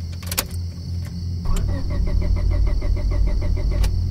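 Ignition key clicking in the lock, then about a second and a half in the car's starter begins cranking the engine, an even rhythmic chugging of about six beats a second, over a steady low drone.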